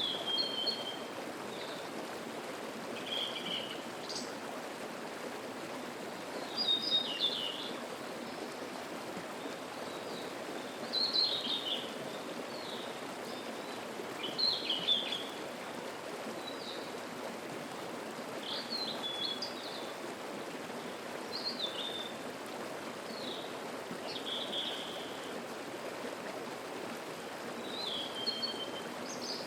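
A mountain stream's steady murmur, with a songbird singing short, high, chirping phrases every two to four seconds over it.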